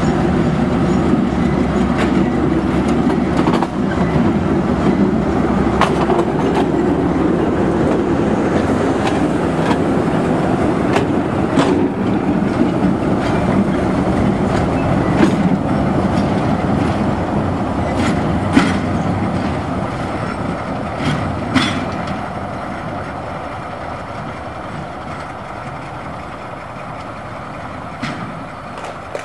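Narrow-gauge train running, heard from on board: a steady rumble with irregular clicks and knocks as the wheels cross rail joints. The sound eases off over the last several seconds.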